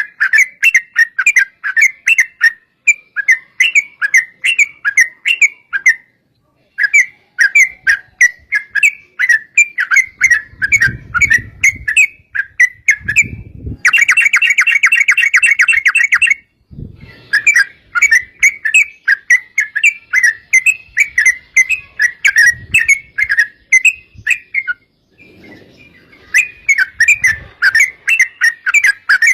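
Yellow-vented bulbul (trucukan) singing a long run of rapid, bubbly chattering notes, several a second, broken by a few short pauses. About halfway through the notes run together into a dense fast trill for a couple of seconds.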